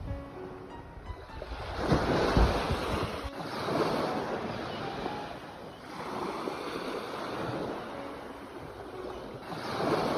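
Sea waves breaking and washing on the shore in repeated surges that swell and fade. The biggest wave breaks about two seconds in, with a deep rumble.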